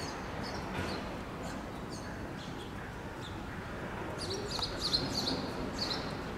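Small birds chirping in short, high notes: scattered at first, then a quick run of chirps about four seconds in, over a steady background hum.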